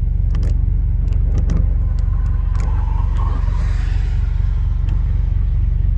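Vehicle engine idling steadily with an even low pulsing rumble, heard from inside the parked vehicle, with a few light clicks over it.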